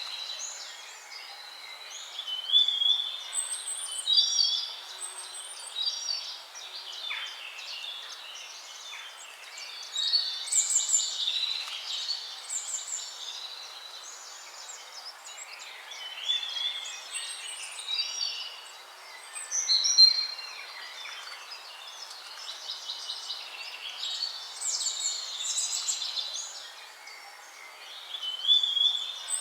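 Several songbirds singing, short whistled and trilled phrases coming in clusters every few seconds and overlapping, over a faint steady hiss.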